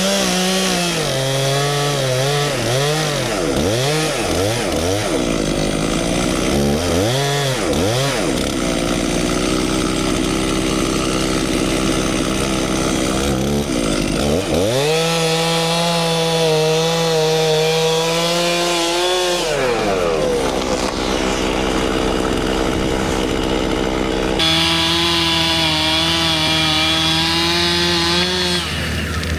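Two-stroke chainsaw cutting into a poplar trunk during felling. The engine speed swings up and down several times over the first few seconds, then holds steady through a long stretch of cutting before dropping back. Near the end the sound changes abruptly and the saw runs on at a steady speed.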